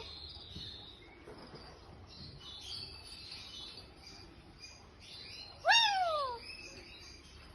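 Pet parrot calling: soft high chirps, then one loud call falling in pitch about six seconds in.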